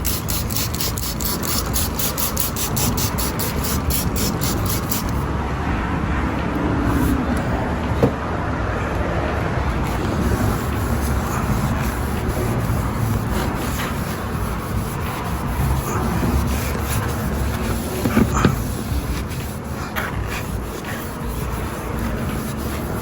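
Electric sander running against a wheel, taking the coating off with 600-grit paper, as a steady grinding noise with a couple of brief knocks.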